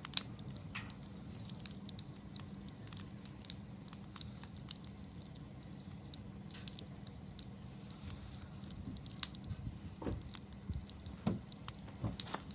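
Wood campfire crackling over a steady low rumble, with many small sharp pops and a few louder, duller knocks in the last few seconds.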